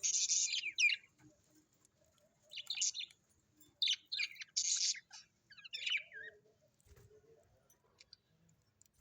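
Birds chirping and twittering in short high-pitched bursts through the first six seconds or so, then going mostly quiet.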